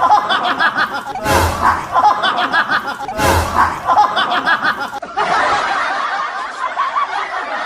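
People laughing, in bursts that start sharply about every two seconds, with the laughter running on in a different recording from about five seconds in.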